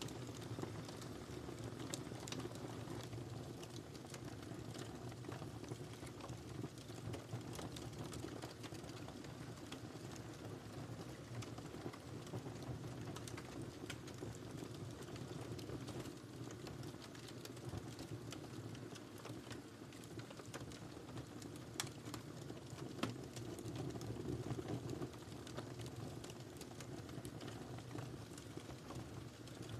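Wood fire burning in a fireplace: irregular small crackles and pops over a low steady rumble of the flames, with a couple of louder pops a little past the middle.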